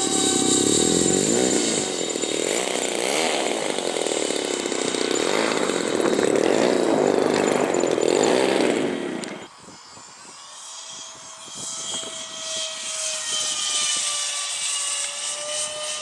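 Electric ducted-fan motors of an RC CRJ-200 model jet whining as it flies past, the sound swirling and shifting in pitch. About nine and a half seconds in it drops abruptly to a quieter, steadier whine.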